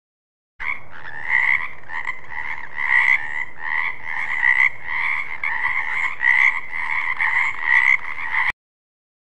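Frogs croaking in a dense chorus of rapid, repeated calls. It starts abruptly about half a second in and cuts off suddenly near the end.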